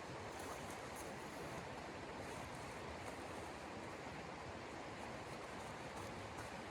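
Blizzard wind making a steady, even rushing noise, with faint light ticks scattered through it.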